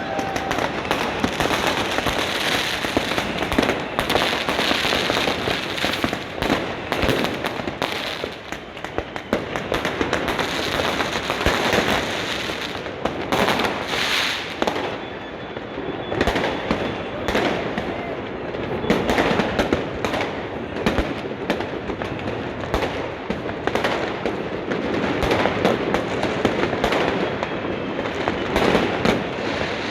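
Fireworks and firecrackers going off thick and fast, a continuous crackle of bangs and pops with no pauses.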